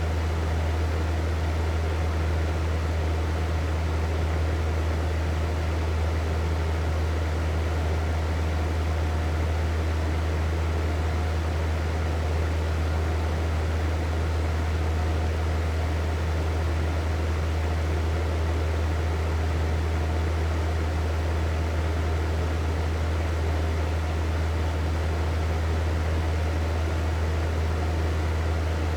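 Hair dryer running steadily: an even rush of blown air over a strong, constant low motor hum.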